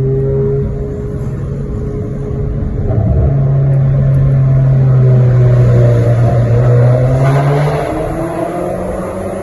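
Stage-tuned Volkswagen Golf TSI with a sport exhaust, its engine droning at a steady pitch under way, then the pitch climbing as it is revved up about three-quarters of the way through.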